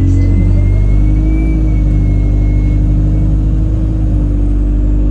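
Alexander Dennis Enviro 200 bus driveline pulling under load: a steady engine rumble with a tonal drone over it and a faint high whistle that rises and then fades about three seconds in. This is the strange whistling and horn-like noise that the uploader believes comes from the gearbox, with the bus feeling sluggish.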